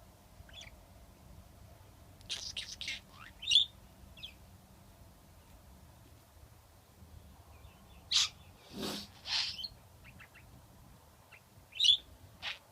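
Pet budgerigar chirping and calling in short scattered bursts of high chirps, with quiet gaps between.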